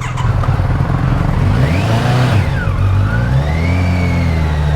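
A 1000cc touring motorcycle's engine pulling away and accelerating, its pitch climbing and dropping back as it shifts through the gears, over wind and road noise. A higher whine rises and falls about two seconds in.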